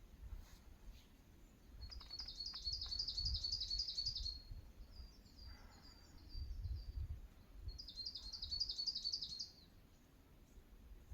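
A small songbird singing: two fast, high trills of rapidly repeated notes, each lasting about two seconds, the first starting about two seconds in and the second near eight seconds, with a quieter, looser phrase between them. A low rumble runs underneath.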